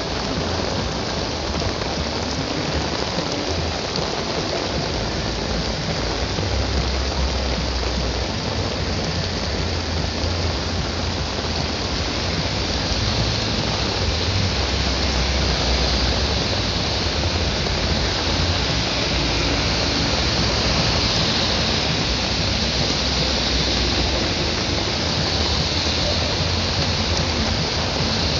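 Heavy rain falling steadily in a hissing wash, with a low rumble underneath.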